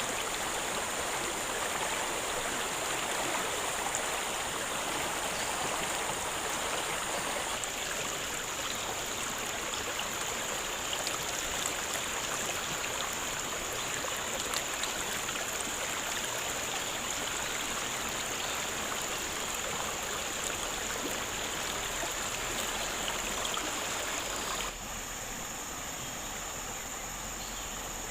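Steady rush of a flowing forest stream, with a steady high insect buzz above it. It drops a little in level near the end.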